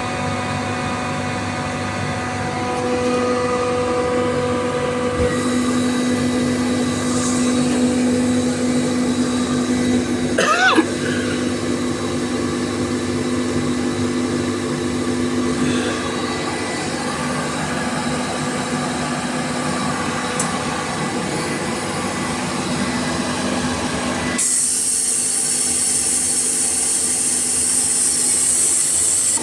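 An 18.5 kW fixed-speed screw air compressor running with a steady, even hum. About ten seconds in there is a brief sliding squeal. Near the end the hum falls away and a strong hiss of air takes over.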